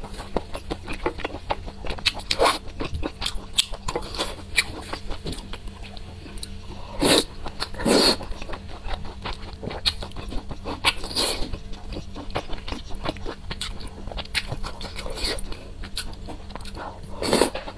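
Close-miked eating: wet chewing with many small mouth clicks and crunches, broken by a handful of louder mouth noises spread through.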